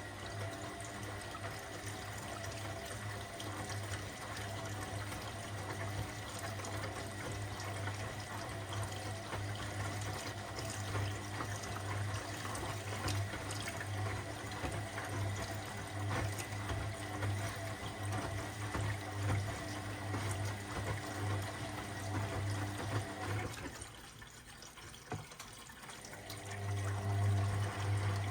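Washing machine running, with water sloshing and splashing over a steady motor hum. Near the end the hum drops away for about two seconds, then comes back louder.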